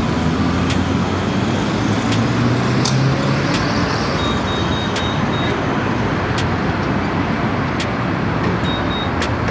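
A car driving, engine and road noise steady, with the engine note rising for about a second and a half near the start as it accelerates. Regular sharp ticks about every 0.7 s and a few short high beeps sound over it.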